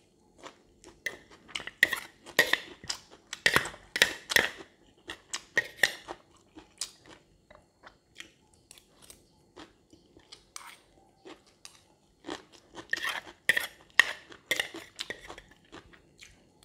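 A person chewing mouthfuls of fried rice with pork cracklings and cucumber slices: close, wet crunching in two busy stretches, from about a second in to about seven seconds and again from about twelve to fifteen seconds, quieter between.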